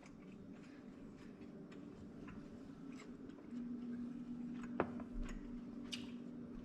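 Faint chewing of a bite of meat, with small scattered mouth clicks and one sharper click near the end. A steady low hum starts about halfway through.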